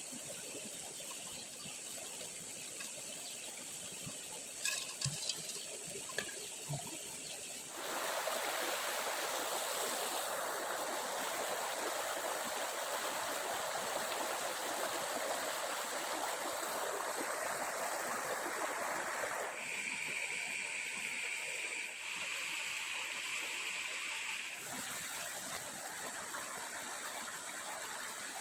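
Stream water running steadily, growing louder and fuller about eight seconds in. A few small clicks come early, and a steady high-pitched buzz is heard for about five seconds in the second half.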